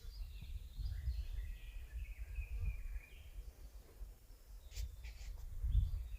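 Wild bird singing in a forest: a phrase of quick, high notes that step up and down for about the first three seconds, with a few more notes near the end. A low rumble runs underneath, and there are a few short clicks about five seconds in.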